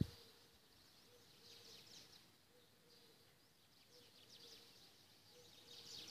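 Faint chirping of small birds, coming in short clusters of rapid high chirps several times, over quiet outdoor background noise.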